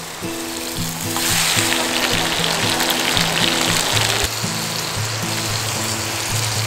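Mustard-leaf kimchi sizzling as it is tipped onto a hot griddle slick with lamb fat. The sizzle swells about a second in and eases a little after about four seconds. Background music plays underneath.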